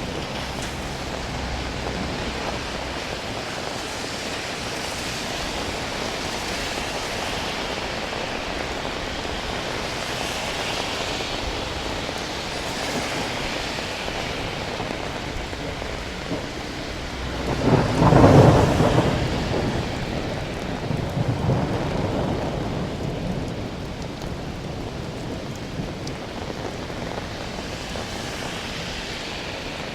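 Steady rain falling, with a loud rumble of thunder a little past halfway that dies away over a few seconds, followed by a weaker rumble.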